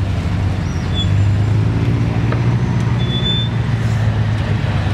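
Range Rover's V8 engine running at low revs as the truck crawls over boulders, a steady low drone.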